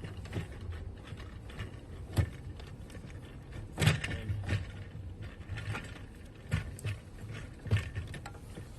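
Irregular knocks, clicks and scraping as a fuel pump assembly is handled and worked into the fuel tank, the loudest knock about four seconds in.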